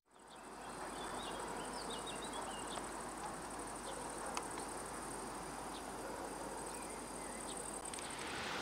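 Outdoor ambience: insects trilling steadily in a high, finely pulsing drone, with scattered short bird chirps over a steady background hiss.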